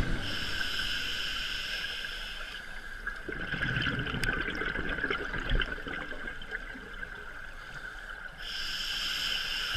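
Underwater recording of bubbling and gurgling, busiest around the middle, over a steady high whine.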